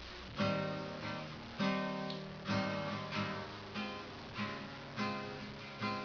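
Acoustic guitar strummed in chords as a song's introduction, starting about half a second in, with regular rhythmic strokes that ring and fade between strums.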